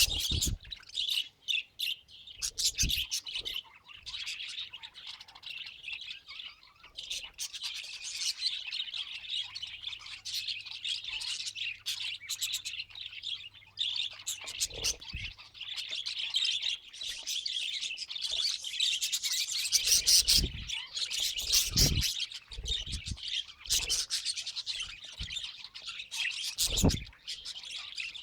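Budgerigars chirping and chattering steadily, a dense run of high warbling calls with occasional squawks. Now and then a short soft thump sounds, most of them in the second half.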